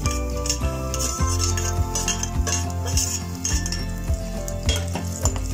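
Cashew nuts and raisins sizzling in hot ghee in a saucepan, with a metal spoon scraping and clinking against the plate and pan as the raisins go in and are stirred.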